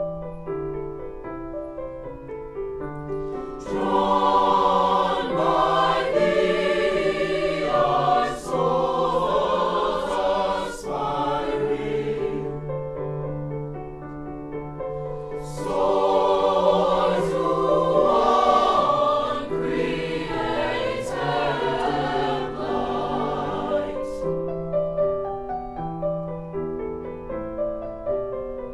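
A school choir singing with piano accompaniment: two sung phrases, each several seconds long, with solo piano before, between and after them.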